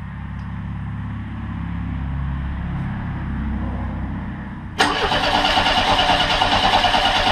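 Monster trike engine being cranked over on its starter without catching, a sign of its intermittent loss of ignition spark. About five seconds in, a much louder harsh rattling noise sets in suddenly and continues to the end.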